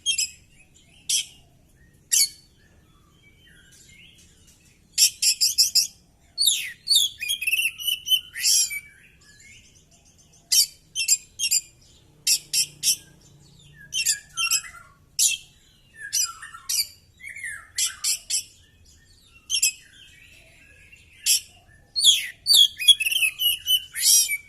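Oriental magpie-robin singing in full voice: short bursts of harsh, scratchy notes mixed with clear whistles and gliding phrases, broken by brief pauses, with a dense run of phrases near the end.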